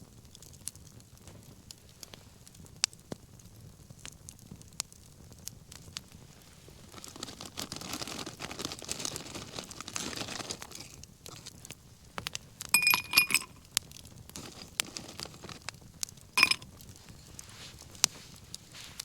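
Wood bonfire crackling with scattered sharp pops, swelling into a louder rustling flare for a few seconds midway. Near the end come two ringing clinks, like a metal or glass utensil being knocked, the first a quick double clink.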